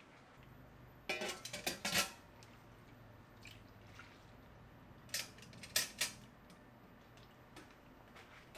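Dishes and cooking utensils clinking and clattering in two quick clusters, about a second in and again around five seconds, with a few lighter taps between, over a faint low hum.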